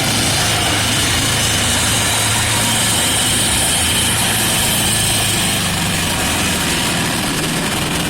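Heavy machine engine running steadily, with a loud even noise over a low engine hum.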